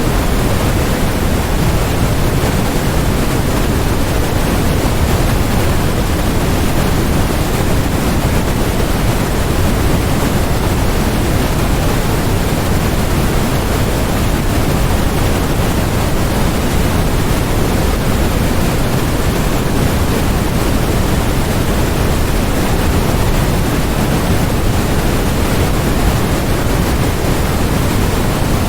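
Steady electronic white noise, an even hiss with no change in level, heavier in the low end than the high.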